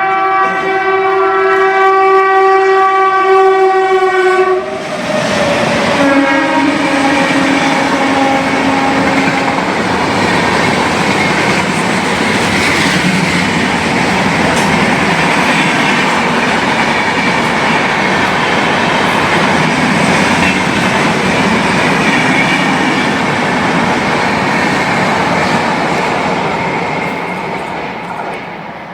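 Indian Railways express train, the 19031 Yoga Express, sounding a long multi-tone horn as it approaches. The pitch drops as the locomotive passes, and a second, lower horn note follows. The coaches then rush past with a steady clatter of wheels on rail joints, fading near the end.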